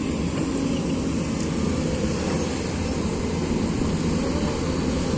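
Excavator's diesel engine running steadily, a constant low rumble.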